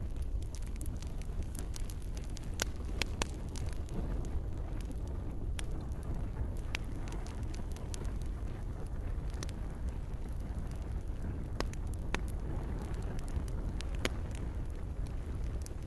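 Campfire crackling, with sharp pops every second or so over a steady low rumble of burning, and gentle rain falling.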